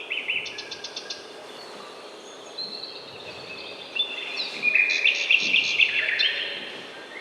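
Songbirds chirping and trilling, several calls overlapping with quick repeated notes; they grow busier and louder about four seconds in.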